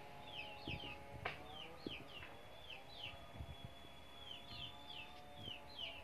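Small birds chirping, a rapid run of short falling chirps, several a second, with a thin high steady tone held for a couple of seconds in the middle. A couple of sharp clicks sound in the first second and a half.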